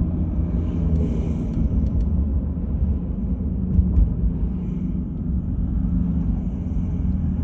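2.8-litre V6 of a 1989 Chevy Celebrity running steadily at highway speed, heard from inside the cabin with a low engine hum under road and tyre rumble. Two light knocks about four seconds in.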